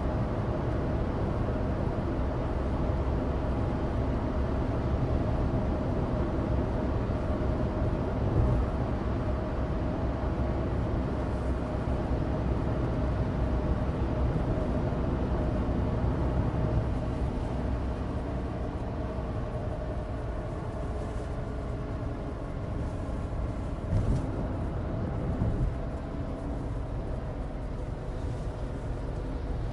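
Inside the cabin of a Suzuki Alto Turbo RS, with its small turbocharged three-cylinder engine running steadily at cruise under a constant rumble of studless winter tyres on dry asphalt. Two brief thumps come through, about a third of the way in and again near the end.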